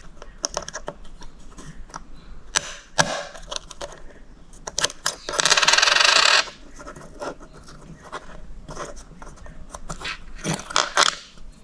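Small metallic clicks and scrapes of a CR2032 coin-cell battery being pushed out of its plastic holder with another coin cell. A louder scraping rasp lasts about a second, midway through.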